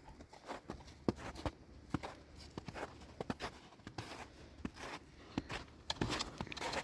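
Irregular light knocks and clicks of things being handled, in a small enclosed space.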